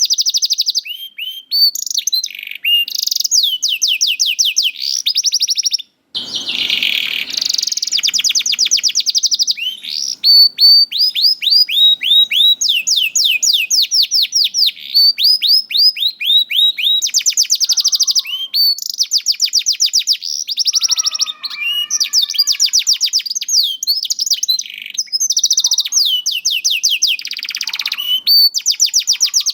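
Domestic canary singing continuously, fast trills of repeated high notes that slide downward, rolling one phrase into the next, with a brief break about six seconds in.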